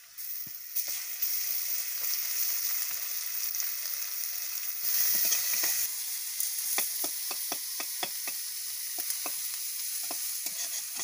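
Raw green mango slices dropped into hot oil with fried onions in a wok, sizzling, the hiss starting suddenly and growing louder around the middle. From about six and a half seconds in, a metal ladle stirring and scraping the pan gives a run of sharp clicks, about three a second.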